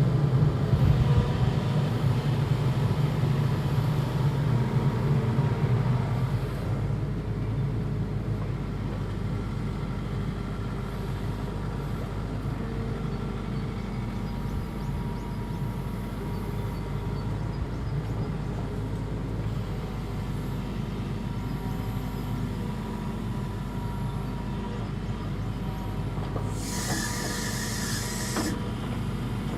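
Hitachi ZX85US-3 midi excavator's diesel engine running, louder for about the first six seconds, then settling to a steady run. A short hiss comes near the end.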